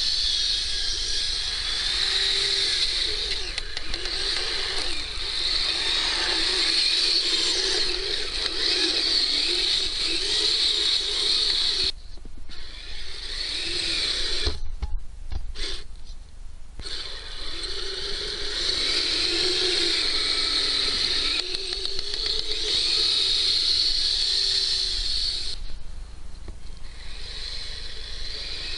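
Kyosho Blizzard RC snow vehicle's electric motor and geared track drive whining, the pitch rising and falling with the throttle. It cuts out briefly three times as the throttle is let off.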